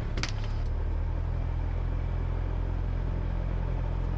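Cessna 172 Skyhawk's piston engine running with a steady low drone in the cockpit, its pitch settling slightly about a second in. A brief rattle sounds just after the start.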